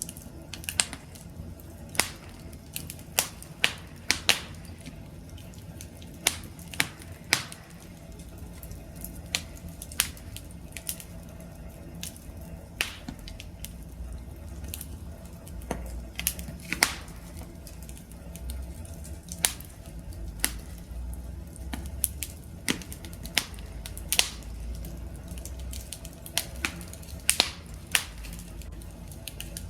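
Wood fire crackling: irregular sharp pops and snaps over a low, steady rushing of the flames.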